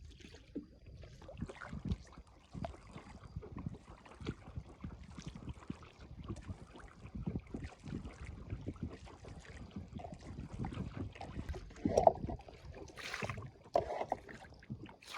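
A small boat being paddled through water: irregular paddle splashes, water sloshing and small knocks against the hull, with a couple of louder splashes near the end.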